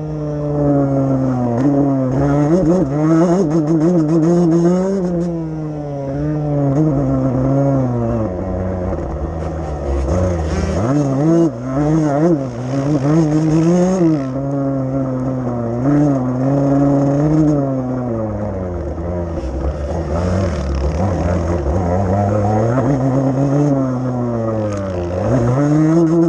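Motocross bike engine being ridden hard on a track, its revs climbing and dropping over and over through the gears and corners.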